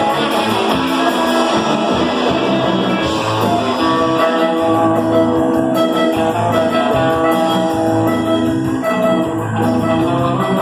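Live rock band playing, with guitar to the fore over a steady pulsing bass and drum beat.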